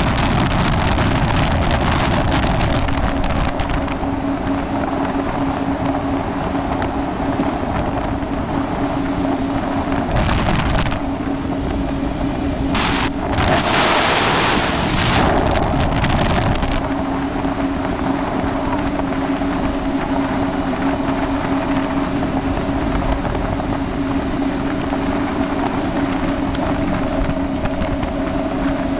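Yamaha jet ski engine running at a steady speed under way, with wind on the microphone. About halfway through, a louder rush of noise briefly covers the engine.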